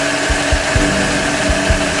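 Miniature engine-room model with four V-16 engines running its mechanism: a steady mechanical whine with low knocks a few times a second.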